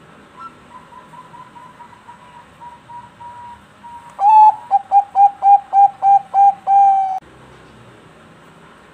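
Zebra dove singing: a run of soft, even notes, then from about four seconds in a loud series of about ten quick staccato coos that ends in one longer held note.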